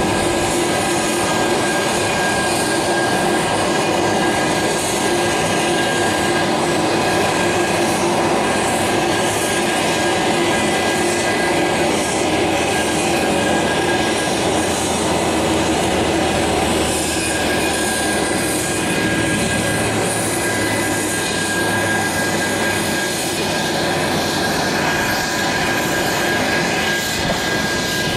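Aircraft turbine engines running steadily: a continuous loud rush with several constant high whining tones.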